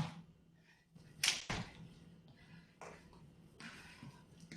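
A few scattered thumps and swishes of feet landing and sliding on the floor during skater and tuck-jump exercises. The loudest is about a second in, with a softer one near three seconds.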